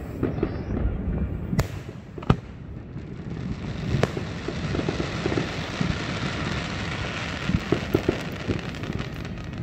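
Aerial fireworks going off: sharp bangs of shells bursting about one and a half, two and a quarter, and four seconds in, followed by a steady crackling hiss as the sparks fall.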